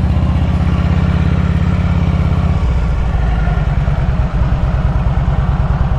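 Harley-Davidson Road King's V-twin engine running with a steady, pulsing beat, which changes about two and a half seconds in.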